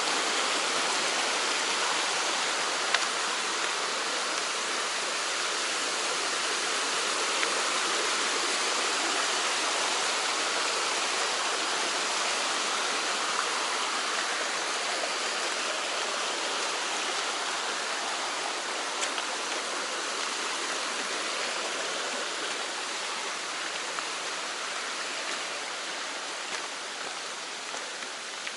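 Mountain stream rushing over rocks in a steady wash of water noise that eases off a little near the end, with a few faint clicks.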